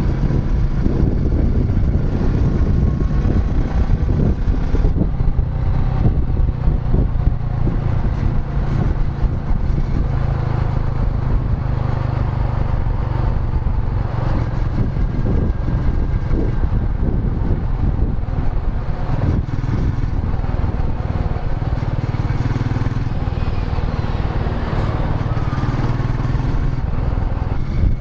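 Royal Enfield Meteor 350's 349 cc single-cylinder engine running steadily while the motorcycle is ridden, its exhaust a fast, even pulsing.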